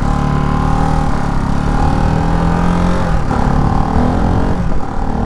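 Ducati Hypermotard 698 Mono's single-cylinder engine running under way, its note holding steady and then dropping about three seconds in as the throttle eases.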